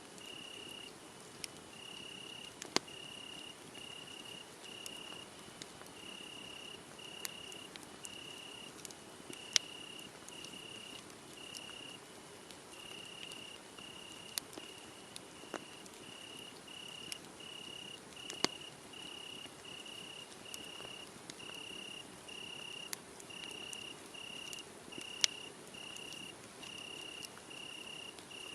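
Crickets chirping in a steady run of evenly spaced, high-pitched pulses, with sharp pops and crackles from a wood fire scattered through; two of the pops are much louder, about ten seconds in and near the end.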